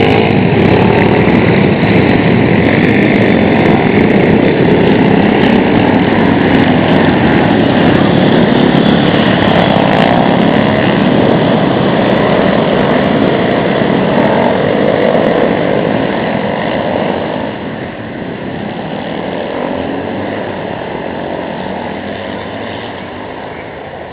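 Many Honda Monkey and Dax minibikes with small single-cylinder engines running and revving together in a mass start. The din fades steadily as the group rides off, from about two-thirds of the way in.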